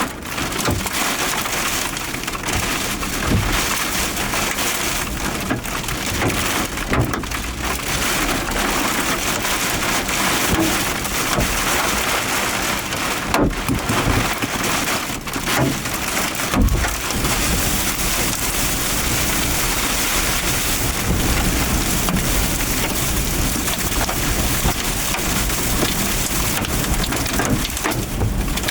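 Heavy rain and hail pelting a storm-chase vehicle: a dense, steady hiss with scattered sharp knocks of hailstones.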